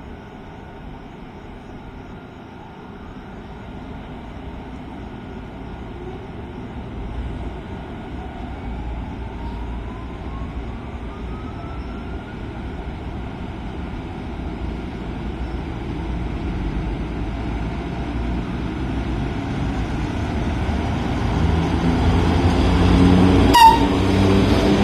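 FS E.656 electric locomotive hauling a train of old carriages, its low running hum growing steadily louder and fuller as the train draws nearer, with a short sharp blip near the end.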